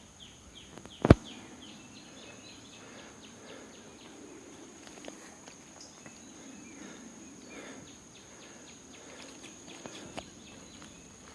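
Quiet outdoor ambience with a steady high-pitched insect drone and faint rustling, like footsteps in undergrowth. There is a sharp click about a second in, and a few short high chirps near the start.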